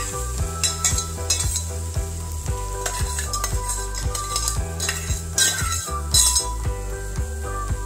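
Tomato puree sizzling as it is poured into a hot frying pan of sautéed onions, with several brief louder bursts of hiss and the scrape of the steel pot. Soft background music with steady notes plays underneath.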